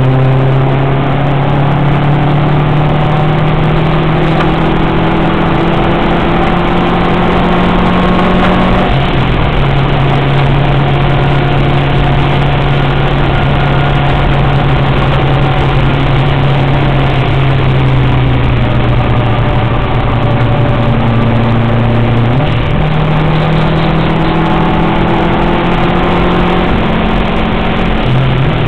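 Subaru WRX's turbocharged flat-four engine pulling hard at track speed over road and wind noise. The engine note climbs steadily, drops in pitch at a gear change about nine seconds in, and jumps up again about 22 seconds in.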